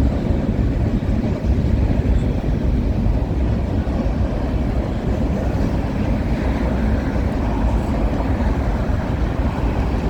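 Freight train of grain hopper cars rolling past at close range: a steady rumble of steel wheels on the rails, even throughout.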